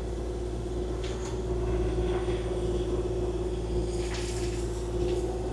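Kubota KX040-4 mini excavator's diesel engine and hydraulics running steadily, a constant drone with a steady whine over it, with a couple of faint knocks from the machine working.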